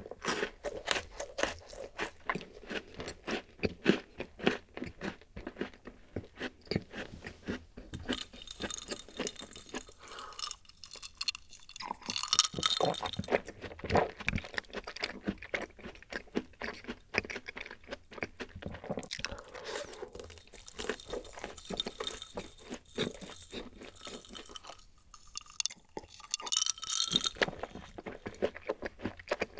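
Close-up chewing of a crisp, cream-filled pastry: a steady run of small crunches, with short pauses about a third of the way in and again near the end.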